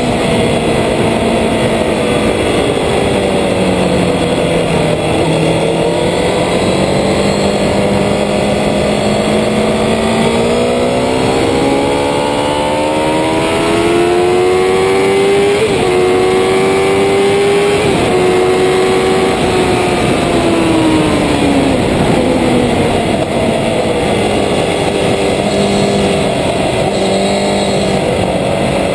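Road-racing motorcycle engine heard from low on the bike, revving up hard with a climbing pitch, two quick drops in pitch about halfway through as it shifts up, then a long fall in pitch as it slows, settling to a steadier note near the end.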